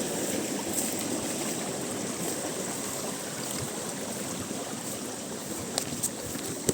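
Spring water running steadily in a small stream, with a few sharp clicks near the end.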